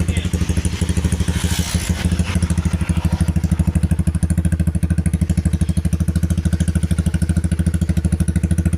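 Honda CBR150R facelift's single-cylinder engine idling steadily through an aftermarket Norifumi-style racing exhaust, with an even, low pulsing beat.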